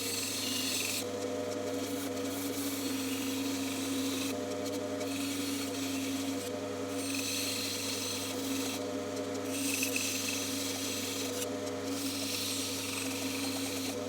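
Bandsaw running steadily while its blade cuts through wood. The hiss of the cut comes and goes with short pauses every few seconds as the piece is fed and turned, over the machine's constant hum.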